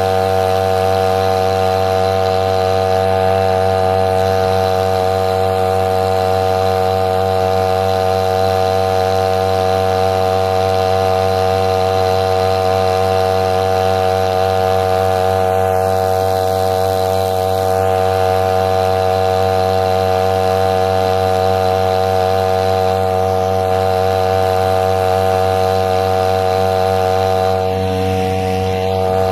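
Small engine running steadily at one constant speed, with a droning buzz that holds the same pitch throughout.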